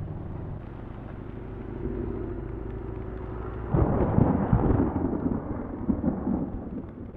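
Suzuki GSX400S Katana motorcycle running on the road with a steady low hum. About four seconds in, a sudden loud, gusty rumble breaks in and lasts a few seconds: wind buffeting the microphone as the bike rides through the rainstorm.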